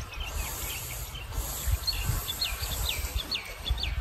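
Songbird calling outdoors: a quick run of short chirps, each sliding down in pitch, starting about two seconds in, with a few fainter chirps at the start. Under it runs a low rumble with a few soft low thumps.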